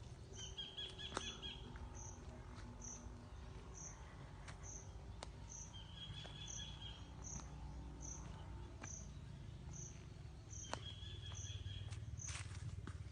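Insect, likely a cricket, chirping evenly about twice a second, faint, with a short trilling call three times over it.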